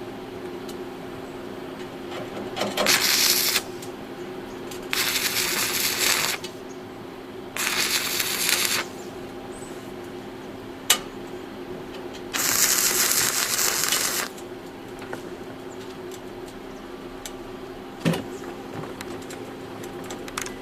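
Stick-welding arc crackling and sizzling in four short welds of one to two seconds each, fixing a fireplace flue pipe in place, over a steady hum. Two sharp clicks fall between the welds.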